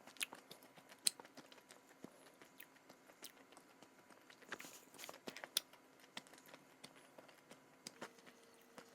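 Close-up crunching and chewing of a crisp strawberry snack: irregular sharp crackles, the loudest about a second in and again around the middle.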